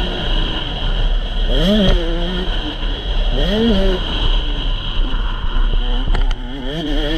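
KTM 125cc two-stroke motocross bike engine running hard, its pitch climbing and dropping sharply twice, about one and a half and three and a half seconds in, as the throttle is worked.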